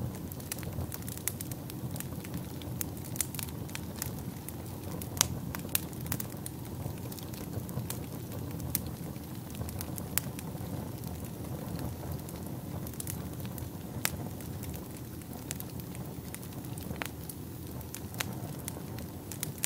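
Wood fire burning in a fireplace: a steady low rumble of flames with frequent sharp, irregular crackles and pops, one louder pop about five seconds in.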